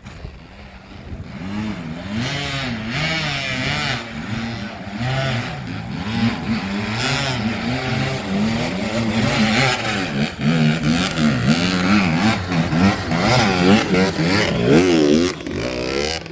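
Enduro motorcycle engine revving up and down over and over, its pitch rising and falling in quick waves and growing louder through the clip.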